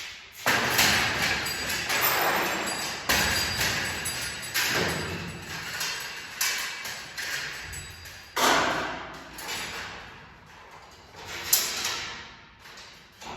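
A series of irregular thumps and knocks, each trailing off in a rattling, scraping noise; the sharpest knock comes near the end.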